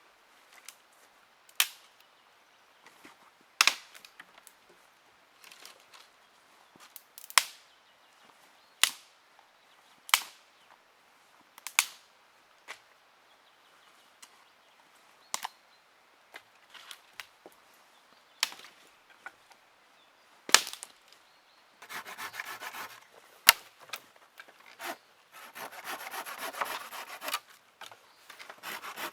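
Wood being chopped with an axe: sharp single strikes, spaced one to three seconds apart. In the last seven seconds a hand saw cuts through wood in runs of back-and-forth strokes, with one more strike among them.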